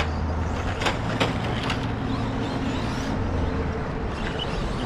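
Electric 2WD stadium RC trucks running on the track: faint high motor whines rising and falling over a steady low hum, with three sharp clacks between about one and two seconds in.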